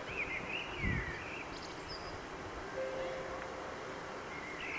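Small birds chirping a few short, gliding notes in the first second, over a steady outdoor background hum; a faint steady tone sounds midway.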